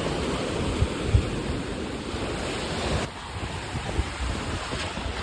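Ocean surf washing in shallow water, a steady rushing noise, with wind buffeting the microphone in a few short low thumps.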